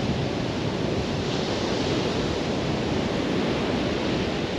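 Surf washing onto a beach, mixed with wind buffeting the action-camera microphone: a steady rushing noise with no distinct events.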